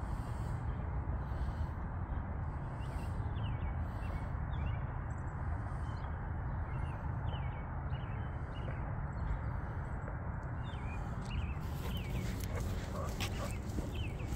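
Scattered short bird chirps over a steady low rumble, with a few clicks near the end.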